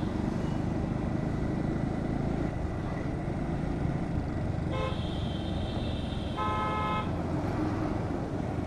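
Steady rumble of a motorcycle ride through town traffic, with vehicle horns honking about five seconds in for roughly two seconds, a second, lower horn overlapping near the end of it.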